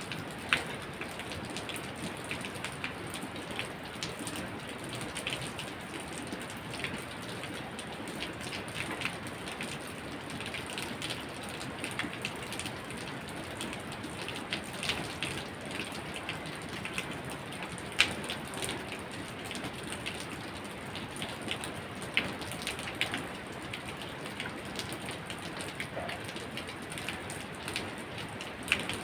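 Steady rain falling, an even hiss with many sharp drops ticking and tapping on a surface, and a few louder single drop hits, the sharpest about eighteen seconds in.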